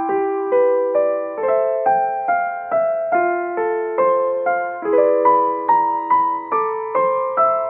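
Background music: a slow piano melody, single notes struck about two to three a second, each ringing and fading.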